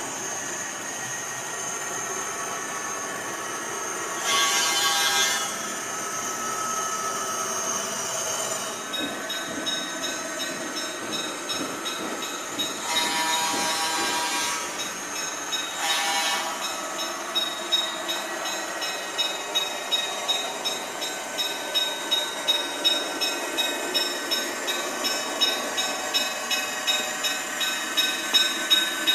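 HO-scale model diesel locomotive's sound decoder playing a diesel engine sound through its small speaker, with horn blasts: one of about a second about four seconds in, then a longer blast and a short one near the middle. In the second half a regular clicking about one and a half times a second, from wheels over rail joints, grows louder.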